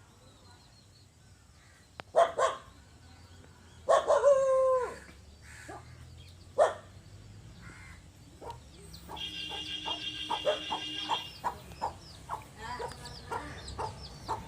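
Aseel chickens calling: a few loud separate calls in the first half, one of them a held pitched call about four seconds in. A longer steady call follows later, then a run of quick clucks near the end.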